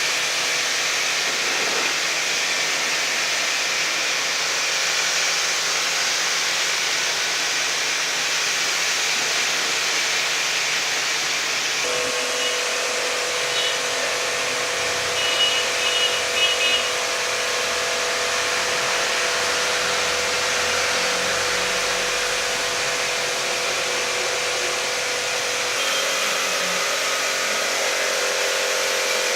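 Car-wash machinery running: a steady loud hiss with a motor hum that comes in about twelve seconds in and changes pitch near the end.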